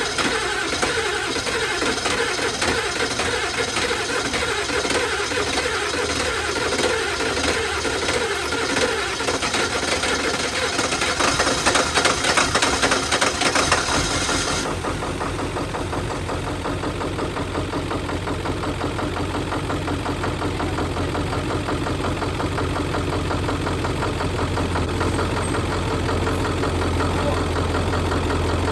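1996 Ford F-250's 7.3 L Powerstroke turbo-diesel V8 cranking over on the starter, getting louder for a few seconds as it begins to fire. About halfway through it catches and settles into a steady idle. It is a no-start engine coming to life after a new fuel filter and cetane booster.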